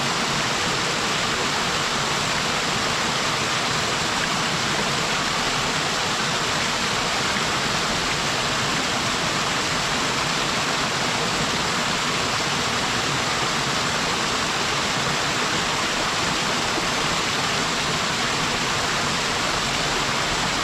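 Waterfall pouring steadily down a mountain stream: an even, unbroken rush of falling water.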